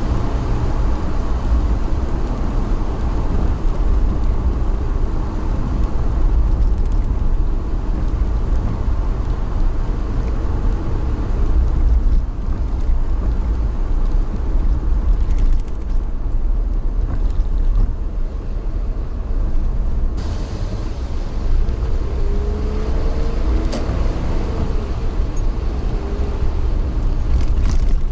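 Steady low rumble of a vehicle in motion, with faint gliding squeals and a single click in the second half.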